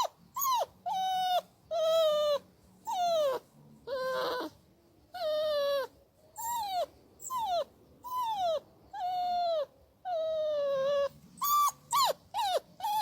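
Dog whining: a long run of high-pitched whines, most falling in pitch, about one or two a second and coming faster near the end.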